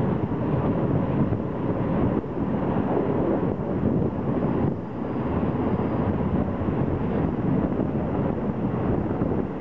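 Steady rumble of a moving passenger train heard from an open carriage window, with wind rushing past and buffeting the microphone.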